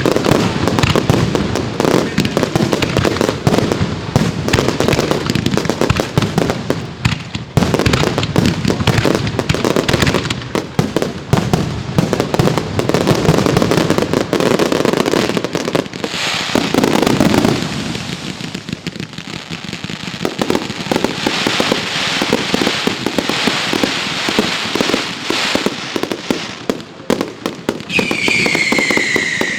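Professional fireworks display: a dense barrage of rapid shell bursts and bangs, turning into a stretch of sizzling crackle about halfway through. Near the end a whistling firework sounds a short tone that falls in pitch.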